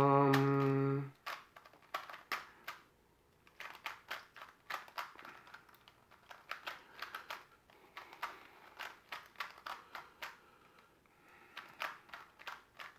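Plastic Skewb puzzle being twisted by hand: irregular clusters of quick clicks and clacks as its pieces turn. A short steady hummed note, the loudest sound, opens it and stops after about a second.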